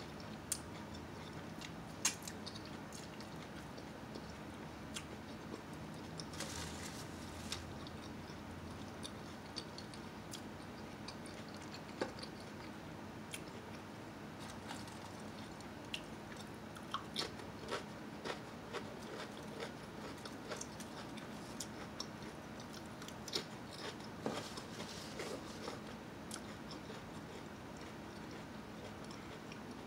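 Close-miked eating of a sub sandwich and potato chips: chewing and biting with many scattered sharp clicks and crunches, over a faint steady hum.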